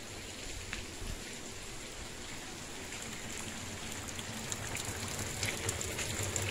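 Downpour of heavy rain falling steadily, with a few sharper drop taps in the second half.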